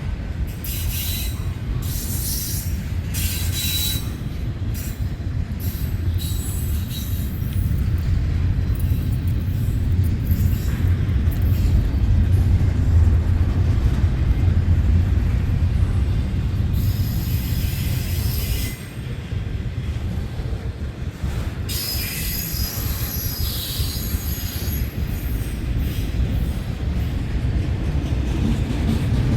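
CN freight train's cars rolling past on steel rails: a steady low rumble from the wheels, broken by high-pitched wheel squeals several times, near the start, around the middle and again about three-quarters through.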